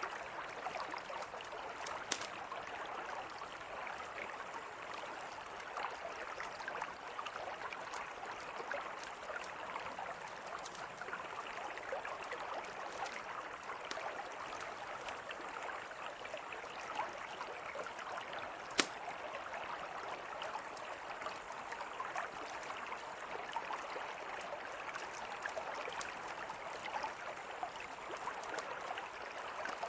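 Mountain river flowing with a steady rushing sound, with the occasional sharp pop and crackle of a wood campfire, the loudest pop about 19 seconds in.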